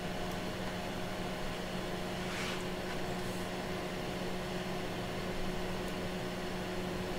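Steady electrical hum with a constant hiss from powered bench test equipment, with a faint soft rustle about two and a half seconds in.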